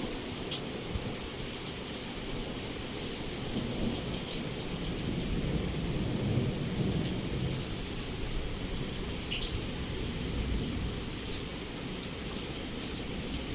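Heavy rain pouring steadily against a window, with low rolling thunder rumbling underneath that swells about halfway through. Scattered sharp drip taps sound over it, one loud tap about a third of the way in.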